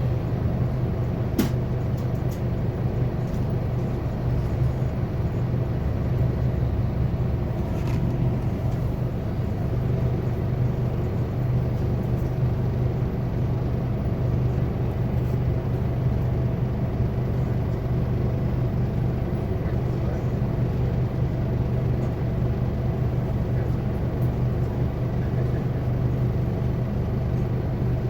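Scania K280UB city bus heard from inside the cabin, its engine running with a steady low drone over road noise. A single sharp click sounds about a second and a half in.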